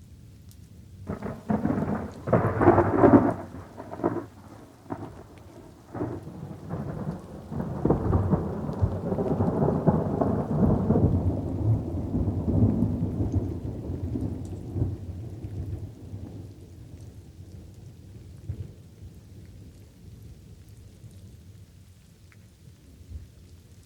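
Light rain falling steadily under a thunderstorm. About a second in, a thunderclap breaks with several sharp cracks, and a long rolling rumble of thunder follows, swelling and then fading away over the next several seconds.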